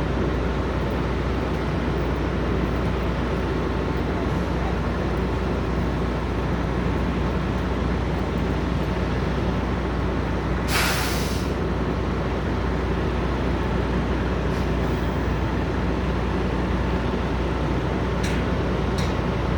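Truck-stop ambience: the steady low rumble of idling truck engines, with one short hiss of air released from a truck's air brakes about halfway through and a couple of faint clicks near the end.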